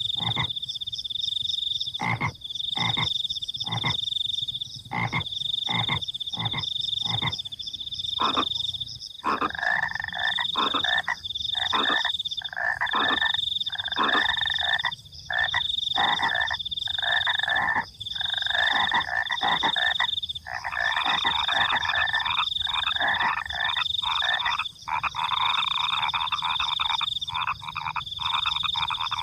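Frogs croaking, with a cricket trilling in high pulses of about a second each throughout. For the first nine seconds the croaks come singly, a few per second, then from about nine seconds in they thicken into a dense, near-continuous chorus.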